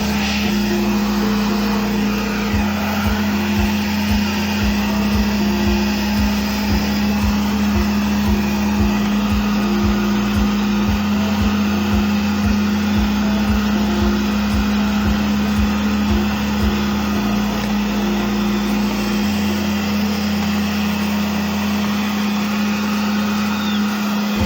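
Multi-purpose water-tank vacuum cleaner running with a steady motor hum, under background music with a regular beat.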